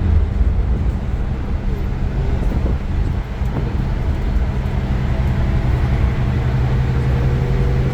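Iveco Crossway LE bus's Cursor 9 diesel engine running steadily while under way, with a low hum that dips briefly about three seconds in and then settles into a steadier tone.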